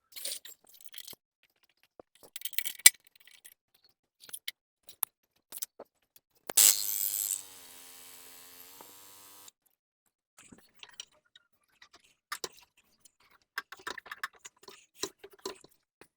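Scattered light metallic clicks and knocks as the mower is jacked up and worked on. About six and a half seconds in there is one louder hit, followed by a steady ringing tone for about three seconds.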